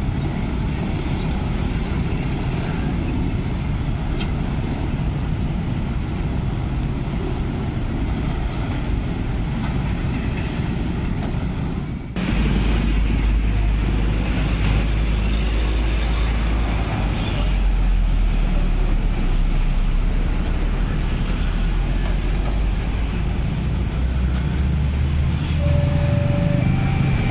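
Steady road traffic of cars and motorcycles passing a railway level crossing, with a heavier low engine rumble in the second half. Near the end, a repeating two-note tone starts: the crossing's warning alarm beginning to sound.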